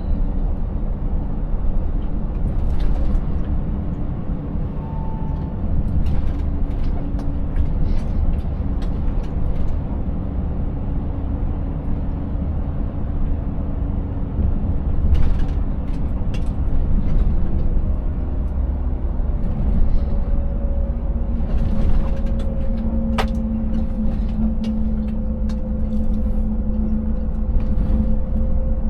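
Scania 590S's 16-litre V8 truck engine running steadily under way with a low drone, over a rumble of road and tyre noise. Scattered sharp knocks and rattles come through, from the empty rig jolting over the rough road.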